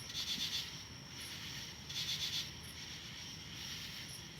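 Insects chirping: a steady high drone with a rapid pulsed trill that comes back about every two seconds, plus faint higher chirps between, over a low background hush.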